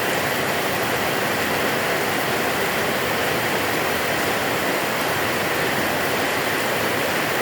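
Heavy rain falling in a steady, even hiss that holds level throughout, with no thunder clap or rumble.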